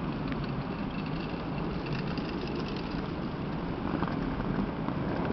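DB Class 423 S-Bahn electric train pulling out and approaching along the track, its running noise on the rails growing louder toward the end, with a faint high squeal through the middle.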